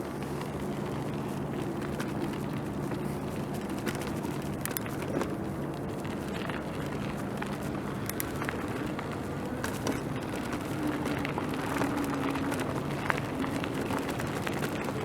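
Bicycle riding along a city street: steady tyre and road noise under a low hum, with scattered small clicks and rattles from the bike.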